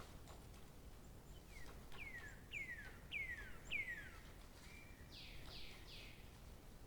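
A songbird singing one faint phrase: a run of about five clear whistles, each sliding down in pitch, then a short level note and three harsher downward notes.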